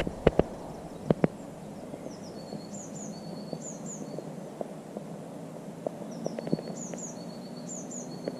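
A small songbird singing in short phrases of quick, high, down-slurred notes, repeated every second or so, over a steady low background hum. A few sharp clicks or knocks stand out, the loudest in the first second and a half.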